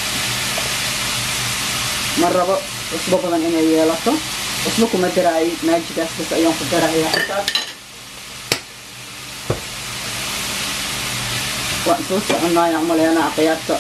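Chicken pieces and red onion sizzling in a stainless steel frying pan as they are stirred, the spoon scraping against the pan in stretches, with a single sharp tap about eight seconds in.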